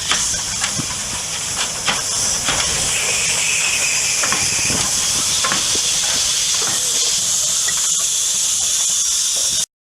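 Steam locomotive venting steam: a loud, steady hiss with a few light knocks in the first half, cutting off suddenly near the end.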